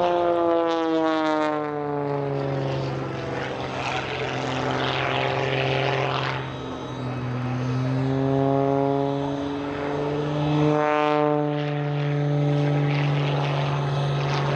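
Propeller-driven aerobatic biplane flying by. Its engine note drops in pitch as it passes, rises again as it comes around, then drops sharply once more on a second pass.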